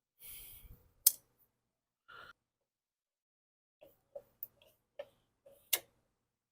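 Scattered light clicks and clinks of hand tools and small metal parts being handled while a mower's carburetor is taken apart. There is a brief rustle at the start, a sharp click about a second in, a run of small ticks, and another sharp click near the end.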